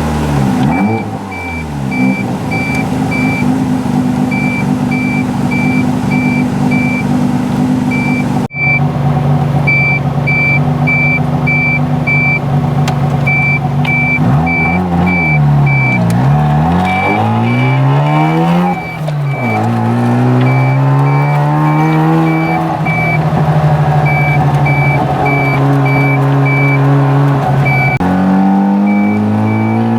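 Mazda RX-7 FC3S's naturally aspirated half-bridge-ported rotary engine pulling through the gears under way. The revs dip at shifts about a second in, around the middle, a few seconds later and near the end, then climb again each time. Short runs of a high electronic beeping repeat over it throughout.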